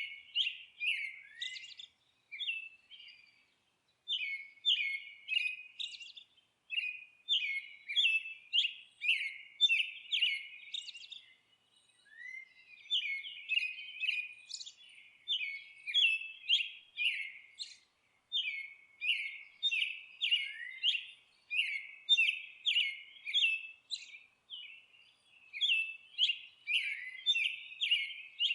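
Songbird chirping: runs of quick, high notes that slide downward, several a second, in phrases broken by short pauses.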